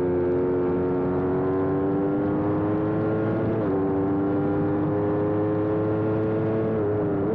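Aprilia sport bike engine at full throttle, its pitch climbing steadily as the bike accelerates, with a quick drop at an upshift from third to fourth about three and a half seconds in and another shift near the end, over rushing wind.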